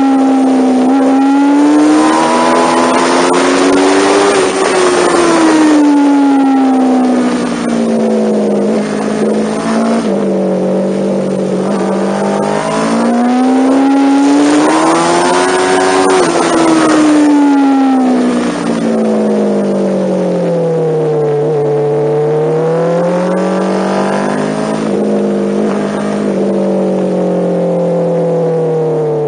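MV Agusta Brutale motorcycle engine heard from the onboard camera, its note rising and falling several times as the throttle is opened and closed through the corners, with wind rush on the microphone.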